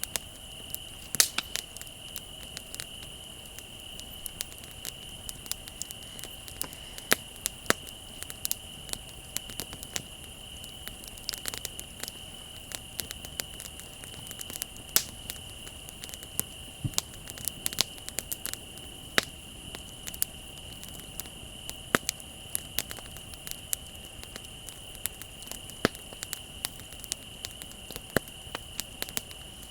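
Wood bonfire crackling, with frequent irregular snaps and pops, over a steady high-pitched trill of crickets.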